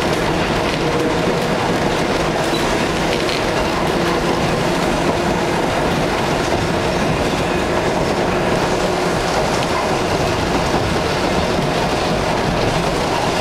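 Passenger train car in motion: a steady, unbroken rumble of wheels on the rails, with a faint clickety-clack, heard from inside the car.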